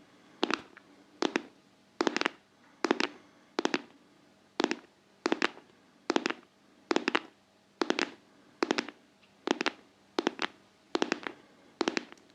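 ASMR tapping on a hard object in an even, unbroken rhythm: a quick cluster of two or three sharp taps about every 0.8 seconds, about fifteen clusters in all.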